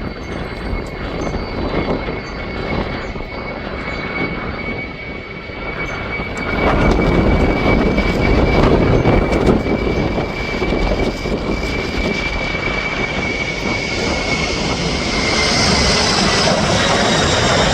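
Boeing airliner's jet engines running, a steady noise with a constant high whine. It grows louder about six and a half seconds in, and a higher whine comes in near the end.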